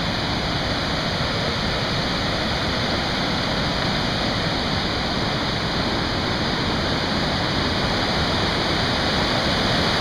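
Upper Swallow Falls, rushing water pouring steadily over the falls and through the rapids below.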